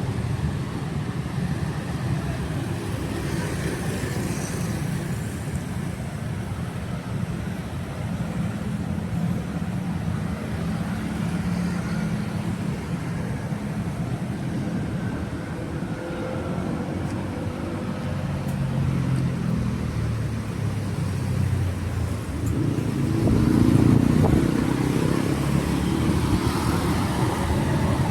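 Street traffic: cars and motorbikes running past with a steady low engine hum, one growing louder as it passes close about three-quarters of the way through.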